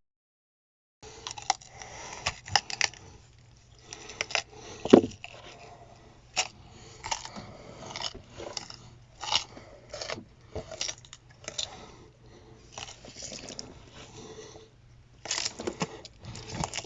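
Lemmings gnawing and scrabbling: irregular crunches, sharp clicks and scrapes over a faint steady hum.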